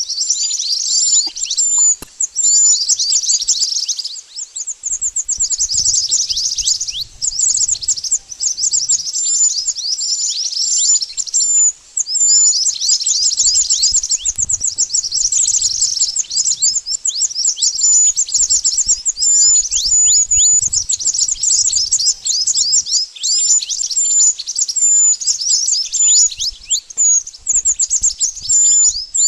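Mantenan songbird calling: a dense, almost unbroken stream of rapid, high, thin chirps that sweep downward, with a short high note repeated again and again, dipping briefly twice.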